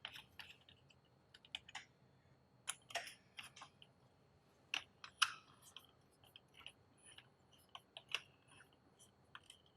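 Faint, irregular light clicks and taps of metal hand tools and hardware, as hex-head bolts are fitted to reassemble a brake caliper with a hex bit.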